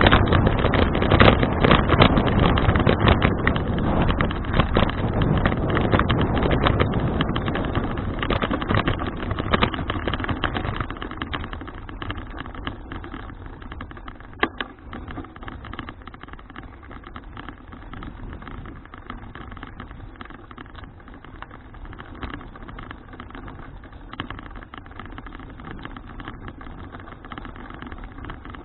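Wind buffeting a bike-mounted action camera's microphone, with rolling noise from a folding bicycle in motion. It is loud for about the first ten seconds, then eases to a quieter steady rush, with a single sharp click a little past the middle.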